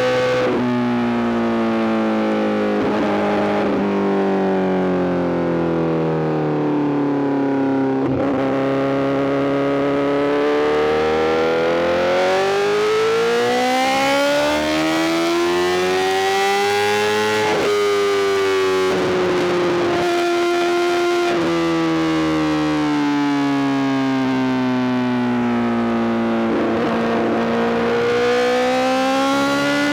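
Honda CBR1000RR-R SP's inline-four engine through a full Arrow GP exhaust, ridden on the road: the note slowly falls, rises and falls again as the bike slows and speeds up, with several short breaks for gear changes. About two thirds of the way in, it holds a steady pitch for a few seconds before dropping again and climbing near the end.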